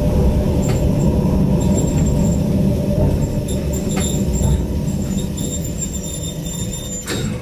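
A Yokkaichi Asunarou Railway 260 series 762 mm narrow-gauge train, heard from inside the leading car, rolls slowly into its terminus platform. Its low wheel and running-gear rumble gradually eases as it brakes toward a stop, with a few sharp clicks from the wheels crossing rail joints.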